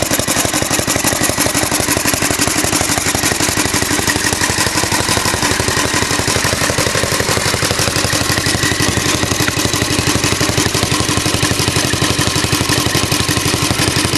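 Small tank-cooled Alpha De Laval stationary engine running steadily with a rapid, even exhaust beat while it turns the Century generator mounted beside it.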